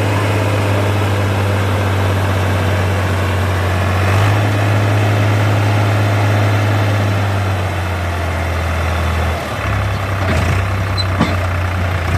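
Diesel tractor engine idling with a steady low hum. Its note shifts slightly about four seconds in and again near ten seconds.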